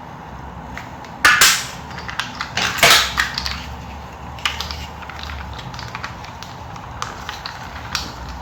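Handling noise from a plastic toy airplane and its packaging: scattered clicks and knocks, with two louder rustling bursts about a second and three seconds in.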